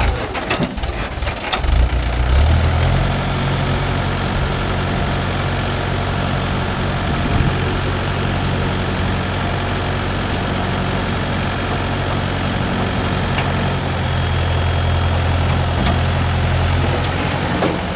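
Heavy diesel engine running steadily at idle. The sound is uneven for the first two to three seconds, then settles into a steady low drone.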